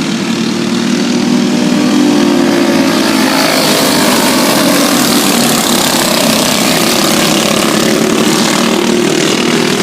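A field of stock race cars running at racing speed, a loud, steady engine drone made of several engine pitches that slowly rise and fall as the cars pass.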